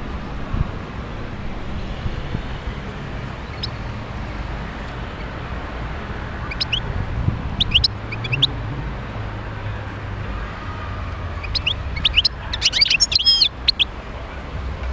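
European goldfinch song: scattered short high chirps, then a dense burst of twittering about 12 to 13.5 seconds in, over a steady low background rumble.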